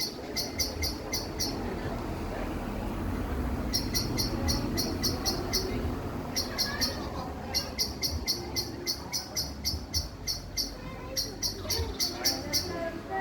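A bird calling in rapid, evenly repeated high notes, about five a second, in four bouts of a couple of seconds each, over a steady low rumble.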